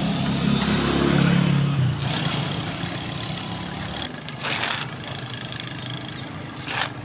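Motor vehicle engine running, swelling and fading over the first two seconds, then a steady low hum. Two short noises come about four and a half seconds in and near the end.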